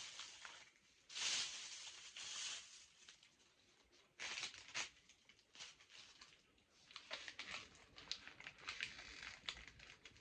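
Plastic food packaging crinkling and rustling as it is handled, in irregular bursts with fine crackles near the end.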